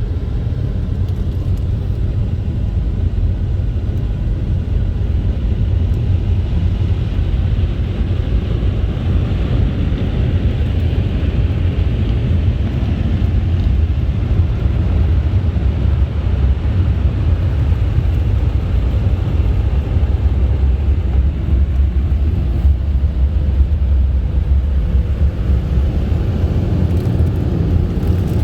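Belanger FreeStyler automatic car wash machinery running, a loud, steady low rumble with a hiss above it.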